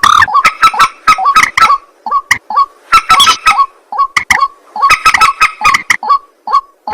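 Rails calling: a loud, fast run of harsh, repeated croaking notes, coming in bursts with short gaps between them.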